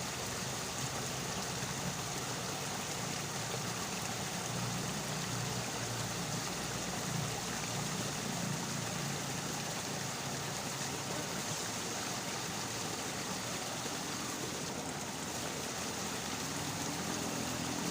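Steady rushing water noise, an even hiss with no breaks.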